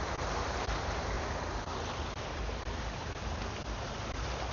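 Steady noise of a flooded street: vehicles moving through water, with wind on the microphone.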